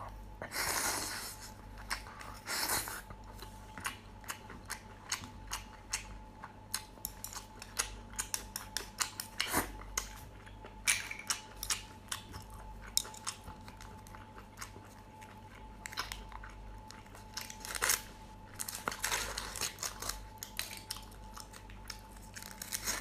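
A person chewing and eating steamed shellfish close to the microphone: a long run of small wet clicks and smacks, with a few longer smacking stretches.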